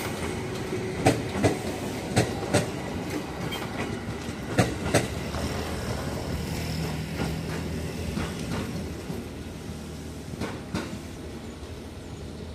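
Electric commuter train (KRL Commuter Line multiple unit) passing close and pulling away, its cars rumbling along the track. The wheels clack over a rail joint in quick pairs several times. The sound fades toward the end as the train recedes.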